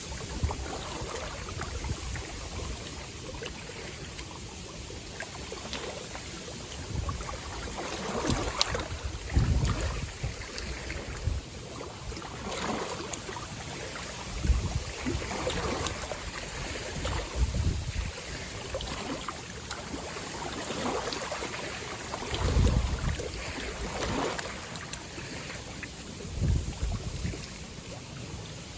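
Strong gusty wind buffeting the microphone in irregular low rumbles, over the steady wash and splash of wind-driven waves on a lakeshore.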